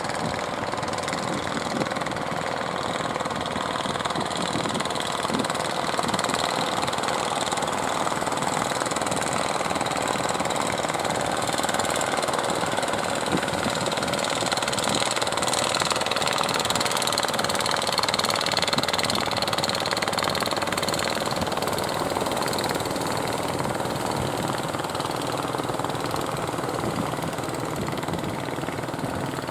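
Boat engine running steadily. It grows a little louder toward the middle and eases off near the end.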